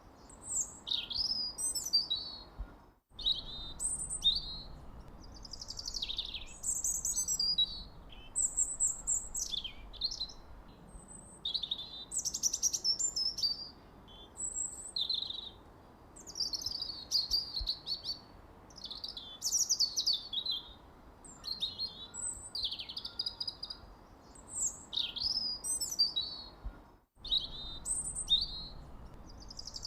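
Birds chirping and singing: a continual run of short, high chirps, down-sweeping whistles and trills, with two brief dropouts where the sound cuts out for an instant, about three seconds in and near the end.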